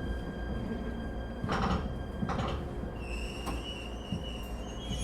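Inside an ET127 series electric train: a steady low rumble with a couple of short knocks, and about three seconds in a steady high electrical whine with several tones sets in and steps slightly upward, typical of the IGBT-VVVF traction equipment.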